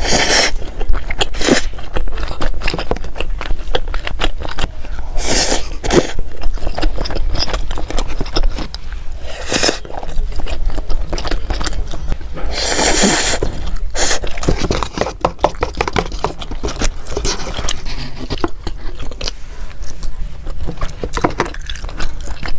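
Close-miked eating: continual biting and chewing clicks, with a louder crunchy bite about every four seconds.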